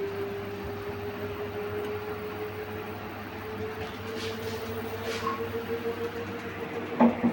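Samsung inverter front-load washing machine running on test after a new drum spider was fitted, the motor's whine slowly rising in pitch as the drum speeds up over a low hum. A short knock sounds near the end.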